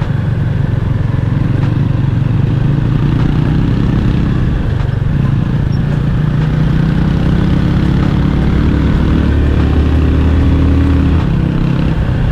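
Motorcycle engine running steadily while riding along a road, its pitch shifting slightly a few times.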